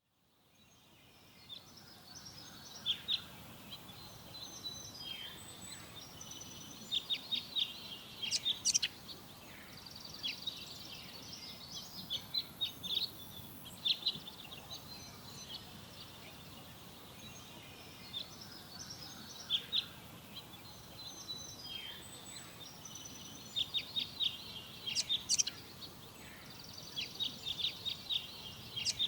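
Forest birds singing, with bursts of quick, high chirps and trills over a steady background hiss. The sound fades in at the start.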